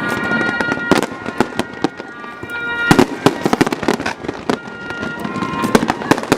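Fireworks going off in quick succession: many sharp bangs and crackles, a few louder reports about a second in and around three seconds in, with steady high tones held over them at times.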